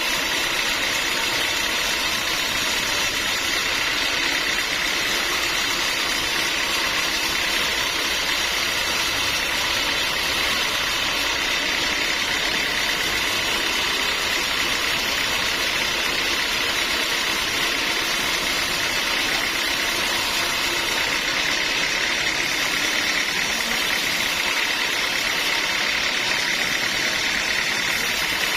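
Sawmill machinery running steadily with a constant mechanical noise and a steady high hum, without pause or change.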